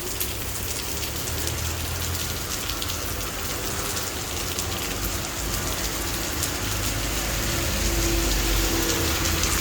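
Torrential rain pouring down and splattering on hard surfaces: a steady hiss full of sharp drop hits. A low rumble underneath grows louder near the end.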